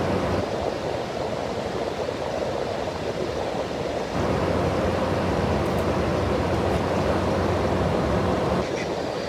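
Window air conditioner's fan blowing air, a steady rush that gets a little louder about four seconds in. The compressor does not kick on, so the unit runs as just a fan.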